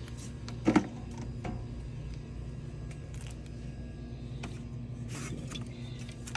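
A sharp double click about a second in, over a steady low hum.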